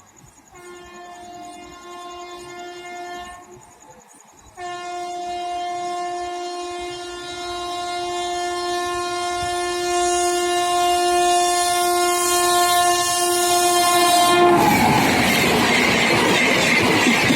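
WAP-7 electric locomotive of a high-speed Rajdhani Express sounding its horn: a short blast, then a long steady blast that grows louder as the train approaches. Near the end the horn cuts off and the train rushes past at speed with a loud rush and clatter of wheels on the rails.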